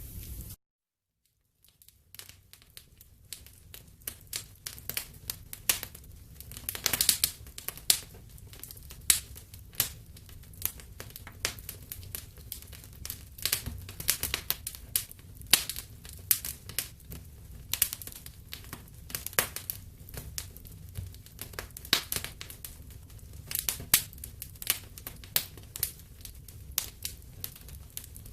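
Wood fire in a fireplace crackling: frequent, irregular sharp pops over a low, steady rumble. Half a second in the sound drops out completely for about a second and a half, then the crackling fades back in.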